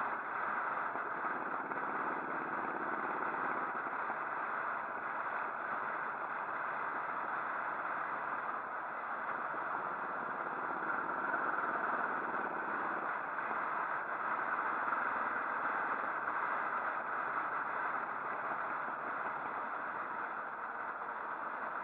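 Motorcycle riding along: a steady rush of wind noise with the engine running underneath.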